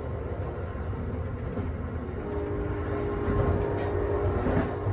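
Amtrak Northeast Regional train running along the track with a steady low rumble of wheels on rail. A steady tone joins about two seconds in, and a few sharp clicks come near the end.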